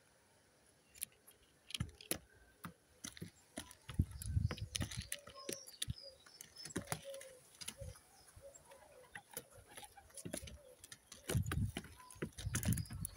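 Pigeons feeding: a scatter of sharp taps from beaks pecking at food, with short, low coos through the middle stretch. A few muffled low thumps and faint high chirps come in between.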